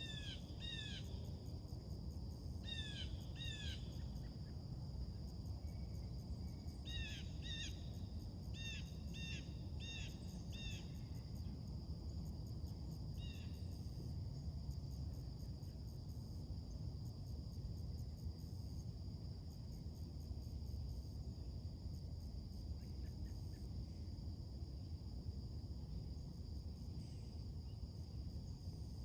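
Birds calling in bouts of short, downward-sliding notes, several in quick succession, mostly in the first half. Under them runs a steady low rumble and a constant high-pitched hum.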